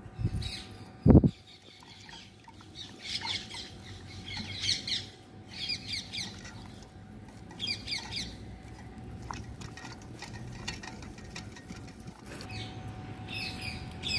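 Birds chirping, short falling calls repeated every second or two. A single loud thump about a second in.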